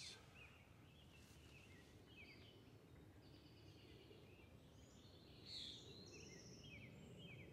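Near silence: faint outdoor ambience, a low steady background with small birds chirping now and then.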